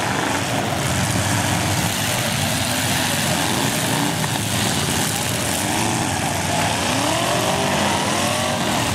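Engines of several full-size demolition derby cars revving up and down over one another against a steady wash of engine noise, the revs rising and falling repeatedly, most often in the middle and near the end.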